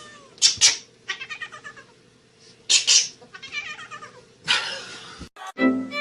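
Domestic cat calling: wavering, pitched meows and yowls broken by three short, harsh, noisy bursts. Music with strings comes in near the end.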